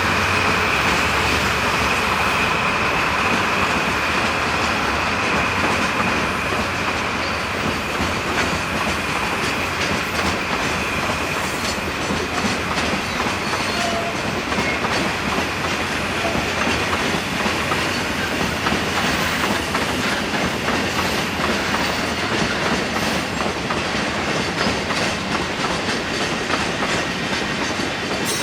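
Freight train of empty cement hopper wagons rolling past, its wheels clacking over the rail joints steadily. A high steady whine fades out over the first several seconds.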